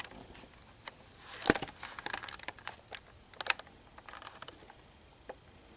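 Scattered faint clicks and short rustles, with two sharper clicks about a second and a half in and again near the middle.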